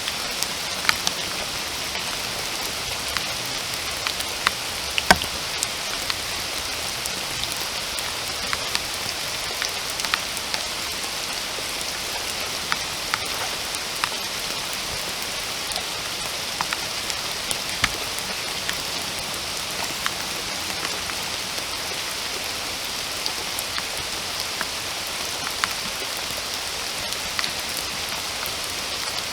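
Steady rain falling in a forest, an even hiss with many separate drops ticking close by; one drop hits louder about five seconds in.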